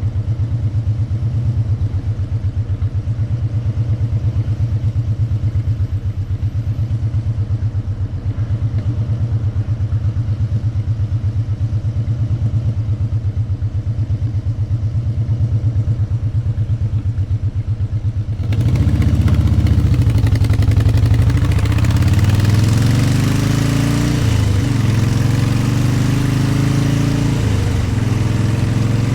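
Motorcycle engine idling with a steady low pulse, then about two-thirds through it pulls away: the engine note climbs, drops back twice as it shifts up, and wind noise rises with speed.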